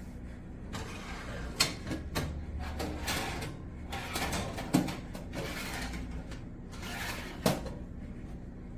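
Hard objects being handled: scraping and rustling with three sharp knocks, a few seconds apart, over a steady low hum.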